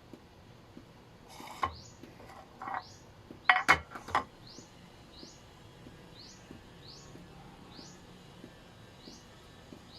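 Kitchen utensils or dishes clinking a handful of times in the middle, sharp knocks with a short ring. Behind them a small bird keeps chirping, short high peeps that fall in pitch, repeated every half second or so.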